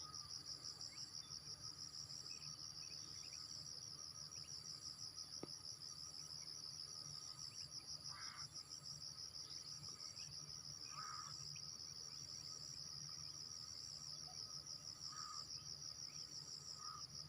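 Insects trilling in a steady, fast-pulsing, high-pitched chorus, faint, with a few brief faint chirps now and then.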